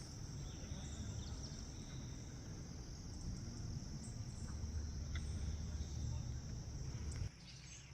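Steady high-pitched chorus of insects such as crickets, over a low rumble that stops abruptly about seven seconds in.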